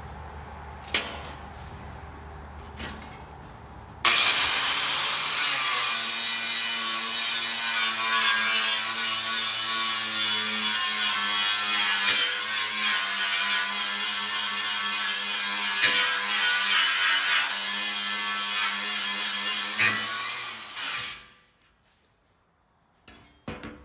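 Angle grinder with a wire wheel scrubbing rust off a steel welding table: a steady motor hum under harsh, scratchy scraping, starting about four seconds in and stopping with a short spin-down near the end.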